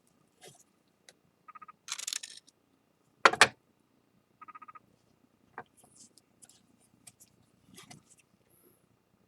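Small clicks, taps and rustles of hands handling a mended plate and tools on a work surface, with two sharp knocks close together about three seconds in and a couple of brief squeaks.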